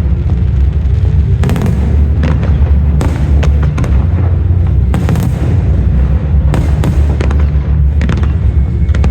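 Fireworks display: aerial shells bursting in a rapid string of sharp bangs over a continuous low booming rumble.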